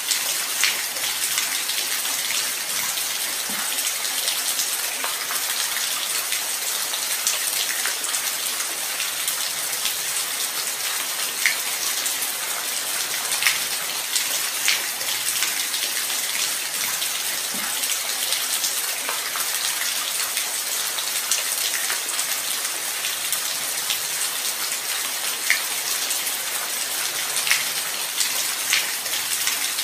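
Steady light rain: a continuous hiss of rainfall with individual drops ticking through it now and then.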